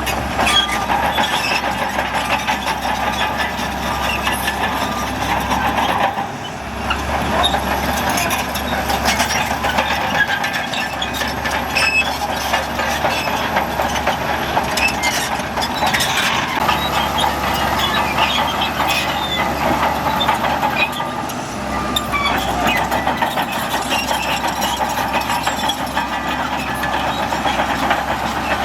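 Shantui bulldozer's diesel engine running under load with the steel tracks clanking steadily, as it pushes dirt; the noise dips briefly twice.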